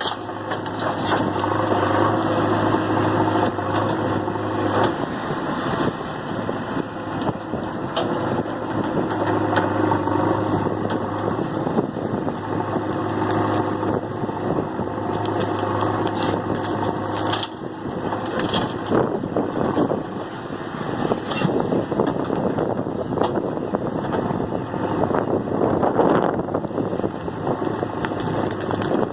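JCB 3DX backhoe loader's diesel engine working under load while it digs and loads mud, with knocks and the clatter of soil and stones. The engine note is steady for about the first 17 seconds, then the sound turns rougher, with more clanks and rattling.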